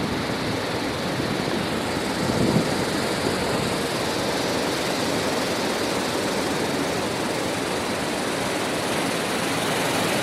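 Heavy rain falling in a steady, even hiss, with a brief louder low swell about two and a half seconds in.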